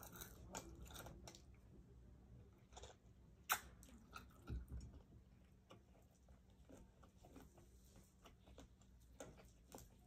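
Faint mouth sounds of someone eating grilled chicken: chewing and lip smacks, with scattered small clicks and one sharper click about three and a half seconds in.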